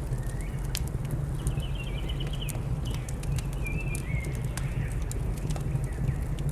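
Wood fire crackling with sharp irregular pops over a steady low rumble, while small birds chirp. A quick trilled call comes about a second and a half in, and shorter calls follow a couple of seconds later.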